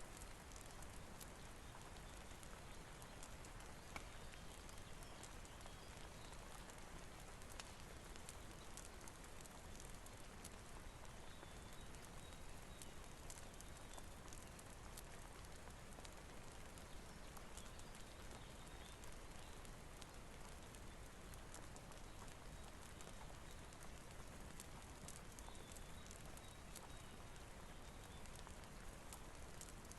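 Faint steady rain mixed with the crackle of a wood fire, with many small scattered ticks.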